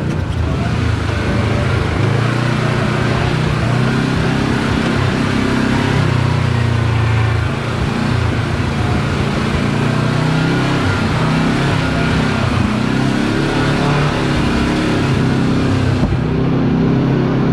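Side-by-side UTV engine running as it crawls along a rocky trail, its pitch rising and falling with the throttle.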